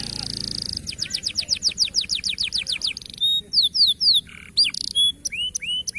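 Canary song used as a training recording: a short buzzy note, then a fast trill of repeated falling notes about seven a second, then slower, varied whistled notes and short rising chirps.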